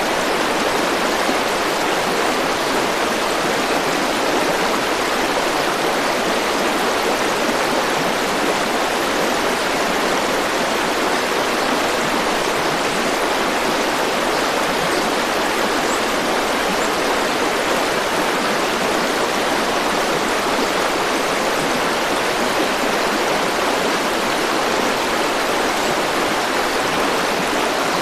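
A river or stream flowing, a steady rush of water.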